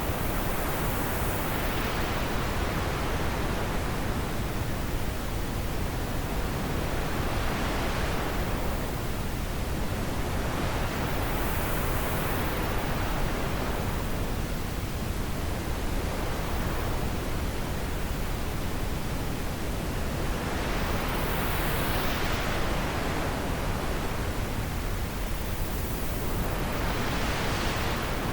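Steady wind, an even hiss that slowly swells and eases every several seconds.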